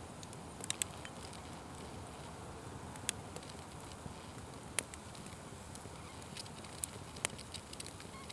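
Wood fire crackling, with a steady low rush of burning and sharp pops at irregular moments, a few close together near the start and several single ones later.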